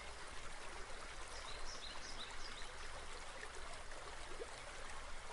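A stream running steadily, a soft, even trickling of water, with a few faint high chirps about a second and a half in.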